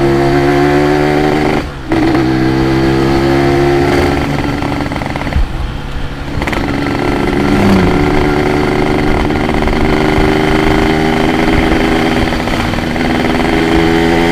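Yamaha RX-King's two-stroke single-cylinder engine running as the bike is ridden. The sound drops out briefly about two seconds in and eases again around six seconds in, then its pitch climbs steadily through the rest as the bike accelerates.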